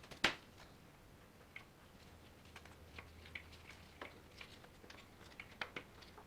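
Scattered light clicks and taps of hand tools and metal engine parts being handled while new timing belts are fitted to a Ducati 916 engine. A sharp click comes right at the start, and a few quick taps come close together near the end.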